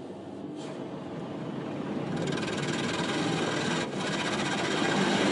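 Automatic car wash machinery running and water spraying onto the car, heard from inside the cabin, getting steadily louder as the wash closes in.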